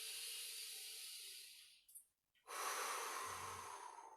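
A person's deep, slow yoga breathing, close to the microphone: two long breaths with a short pause between them.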